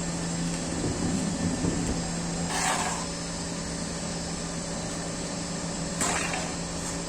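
A machine running with a steady hum on one constant low tone under a broad hiss, broken by two short hissing bursts, about two and a half seconds in and again about six seconds in.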